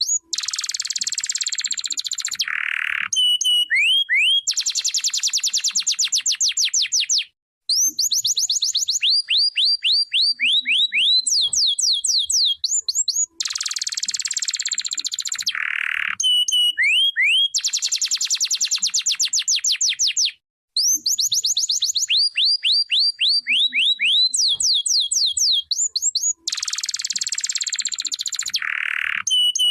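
Domestic canary singing a continuous song of fast trills and rolls: rapid runs of repeated sweeping notes, with two brief pauses.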